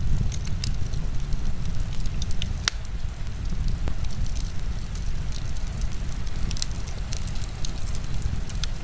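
Wood fire crackling in a fireplace, with frequent sharp pops and snaps over a steady low rumble of heavy rain.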